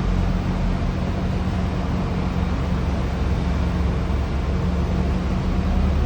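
A steady engine hum with a constant low drone under an even, noisy hiss, with no knocks or breaks.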